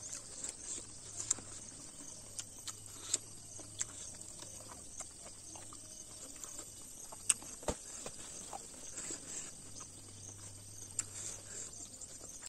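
Close-up eating sounds: chewing and wet lip smacks as food is eaten by hand, in irregular small clicks, over a steady high insect drone.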